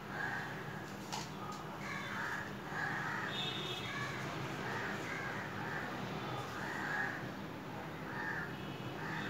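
Bird calls, short and repeated in quick succession throughout, with a faint click about a second in.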